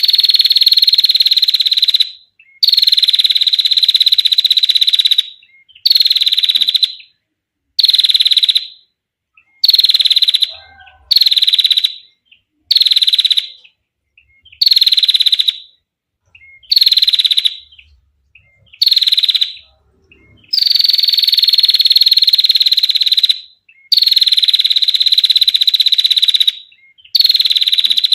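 Female prinia (prenjak) giving its long, clear rattling trill over and over. The calls are buzzy and high, each opening a little higher before settling, and range from about a second to nearly three seconds long, with short pauses between them.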